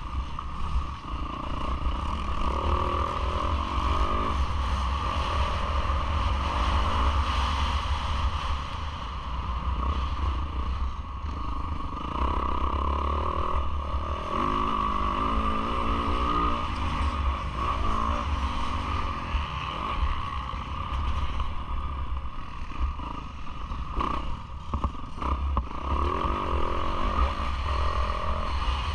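Yamaha YZ450F four-stroke single-cylinder motocross engine revving up and falling back again and again as the rider accelerates and shuts off around the track, with clattering from the bike.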